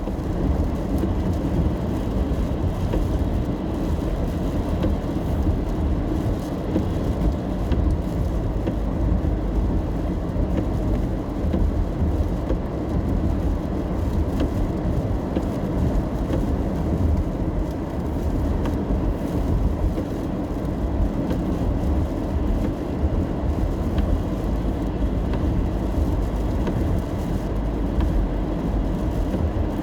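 Steady road rumble from inside a moving car: tyre and engine noise heard through the cabin, low and even, with no clear events.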